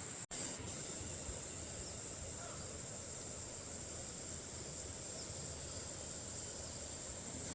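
Insects keeping up a steady high-pitched drone over a low background hiss, broken by a momentary dropout shortly after the start.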